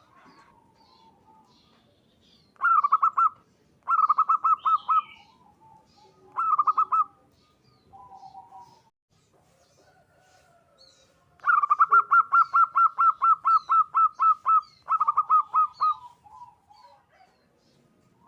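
Zebra dove (perkutut) cooing in runs of fast repeated notes: three short runs early on, then a long run of about four seconds past the middle. Faint chirps of small birds sound in the background.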